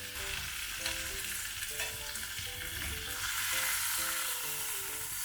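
Steak sizzling steadily in a cast-iron pan over a wood fire, with a few faint crackles. Soft background music plays underneath.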